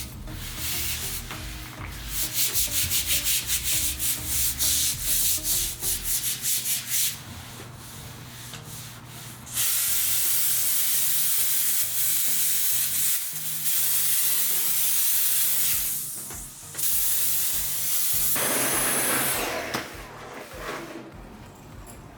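A surface being scrubbed clean by hand. First come quick, regular rubbing strokes, then longer, steadier stretches of rubbing.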